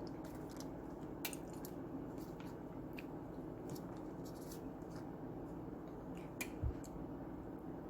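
A person chewing food, with faint scattered mouth clicks and smacks over a steady low hum, and one soft thump about two-thirds through.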